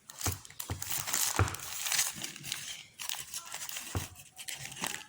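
Hamburger's wrapping being opened by hand: irregular crinkling and rustling with a few small tearing and clicking sounds.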